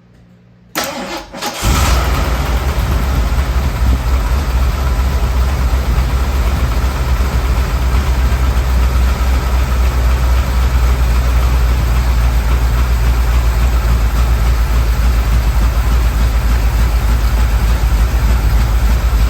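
1979 Ford Bronco's 351M V8 cranked on the starter for about a second, then catching and settling into a steady idle on its new spark plugs.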